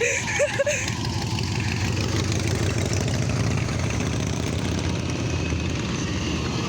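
Several motorcycle engines running together as a group of bikers rides slowly past, a steady low rumble.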